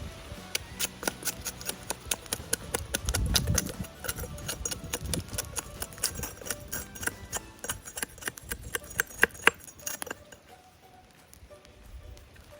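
Small wood campfire crackling and popping with frequent irregular sharp snaps, plus a short low rumble about three seconds in. The snaps thin out and grow quieter near the end.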